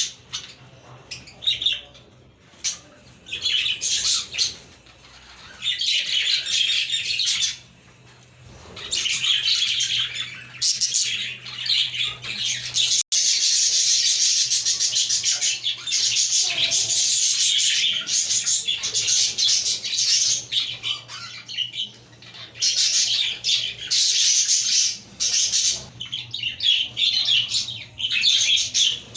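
A group of budgerigars chirping and warbling, in short bursts at first, then in a dense, nearly unbroken chatter for several seconds before breaking into bursts again.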